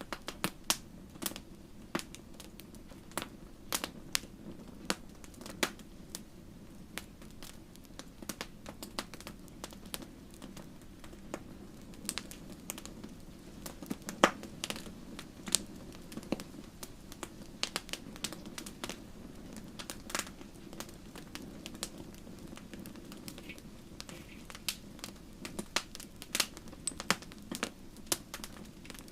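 Wood fire in a fireplace crackling and popping, with irregular sharp snaps, a few louder pops now and then, over a steady low rumble of the flames.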